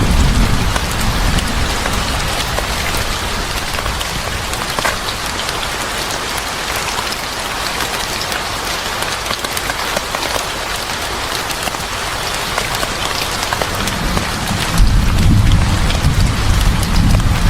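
Steady rain with a dense patter of drops. A deep low rumble fades out just after the start and swells back about 15 seconds in.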